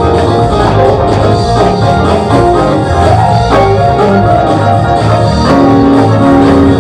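Loud instrumental band music, with held chords over steady bass notes and no clear singing.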